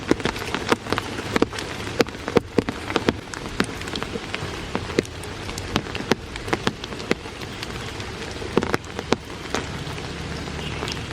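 Heavy rain falling, with large drops landing close by in irregular sharp taps over the steady hiss; the taps thin out near the end.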